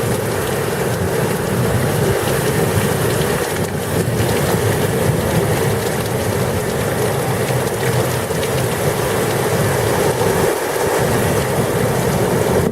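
Heavy thunderstorm rain pouring down in a steady downpour.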